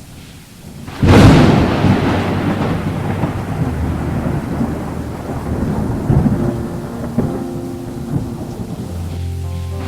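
A sudden clap of thunder about a second in, followed by a long rolling rumble over steady rain.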